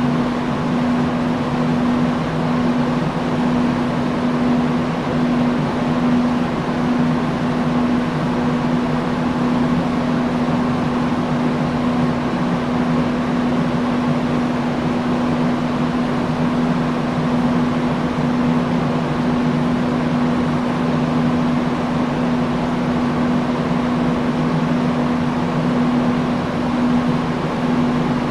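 Industrial fan running steadily: an even whoosh of moving air with a constant low hum.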